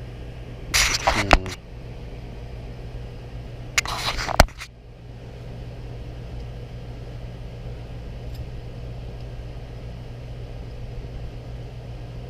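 Two short bursts of metal handling and rattling as a digital dial indicator is repositioned on its mount, each ending in a sharp click, over a steady low background hum like a fan.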